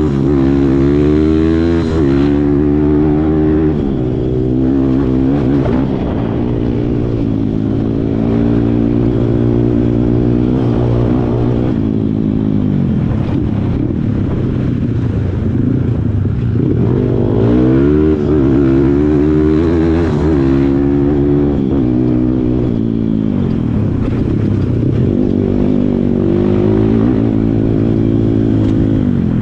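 Kawasaki KLX140 dirt bike's single-cylinder four-stroke engine under way off-road. It revs up and eases off over and over, the pitch climbing and dropping back several times, with sharper rises about two seconds in and around eighteen to twenty seconds in.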